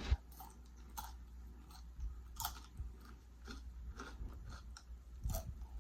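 A person chewing food close to the microphone: soft, irregular mouth clicks, with a couple of louder bites along the way.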